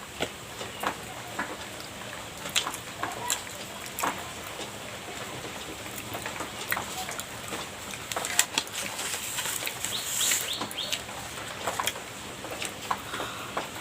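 Mouth sounds of someone eating soft pastry: irregular wet clicks and smacks of chewing and lips, with a denser run of sharper smacks about ten seconds in.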